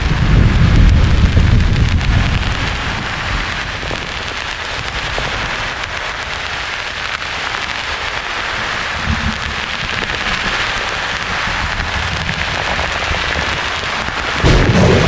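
Thunderstorm ambience: a steady rain-like hiss, with low rolling thunder that fades over the first few seconds. A short rumble comes about nine seconds in, and another swells up near the end.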